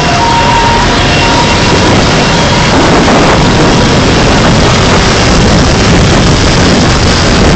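Steady road and engine noise of a moving car picked up by a dashcam. A high tone sounds on and off during the first two seconds.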